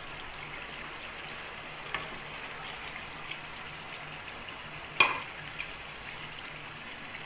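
Curry masala sizzling as it fries in oil in a non-stick frying pan, with beef meatballs being added and stirred in with a spatula. One sharp knock against the pan about five seconds in, and a lighter click a few seconds before it.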